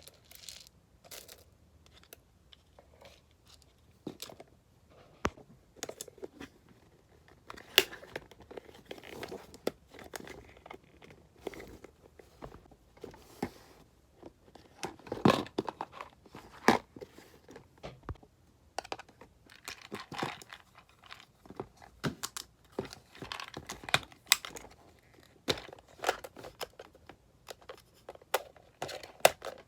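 A hamster nibbling and gnawing on a treat cake, in irregular small clicks and short rustles.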